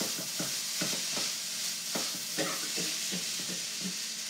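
Fried rice sizzling in a hot wok while it is stirred and tossed with a utensil, with irregular scrapes and knocks against the pan over a steady sizzle.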